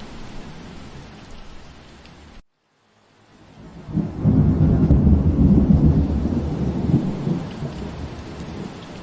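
Steady rain that cuts out to silence about two and a half seconds in, then fades back. A deep roll of thunder rumbles for about three seconds and eases away under the rain.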